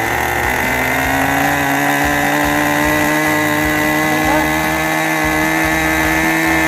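Fuel-burning model airplane engine running steadily at high revs with a buzzing, even note that creeps slightly higher in pitch. It is being run up on the ground while its fuel mixture is still being tuned.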